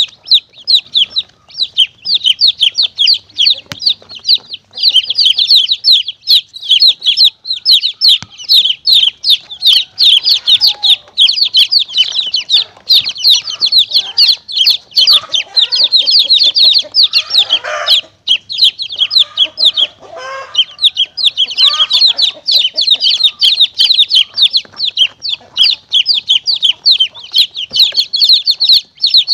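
A brood of baby chicks peeping rapidly and continuously in shrill, high calls, with lower clucking calls joining in through the middle stretch.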